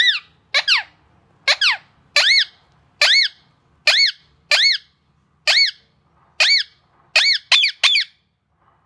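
Pet parrot giving a run of short, high squeaky calls, mostly in quick pairs about once a second, each rising then falling in pitch; the calls stop shortly before the end.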